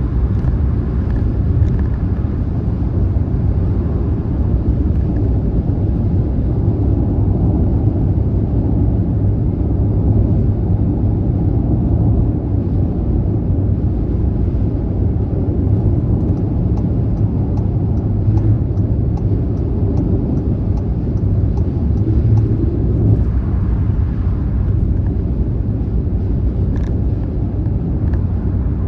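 Car cruising on a motorway: a steady, low tyre and engine rumble. In the middle, a faint ticking about twice a second runs for several seconds.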